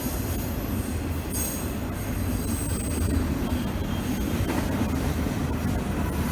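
A train rolling past with a steady low rumble, and thin high-pitched wheel squeals coming and going over it.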